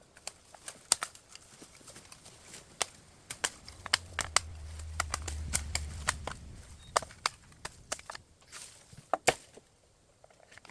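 Bamboo being cut and broken by hand: a string of irregular sharp cracks and knocks, with a low rumble for a couple of seconds near the middle.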